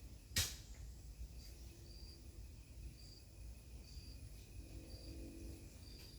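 Short high chirps from a small animal, repeating about once or twice a second over a low wind rumble, with one sharp click about half a second in.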